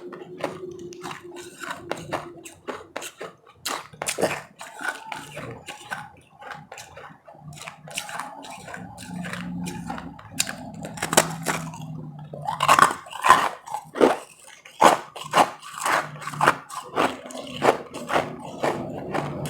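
Close-up chewing and crunching of frozen powdery ice in the mouth: a run of irregular sharp crunches that grow densest and loudest about two-thirds of the way through.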